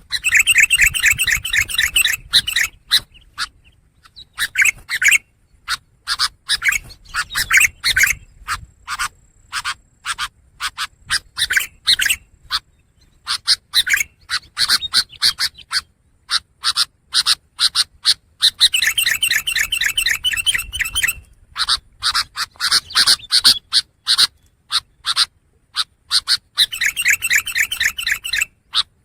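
Long-tailed shrike singing: fast chattering phrases of rapid, sharp notes with short pauses between them. The loudest runs come right at the start, about two-thirds through and near the end.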